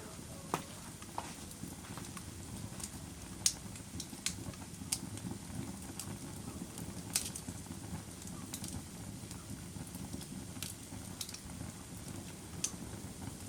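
Wood fire burning in a fireplace: a steady low rumble with scattered sharp crackles and pops, the loudest about three and a half and seven seconds in.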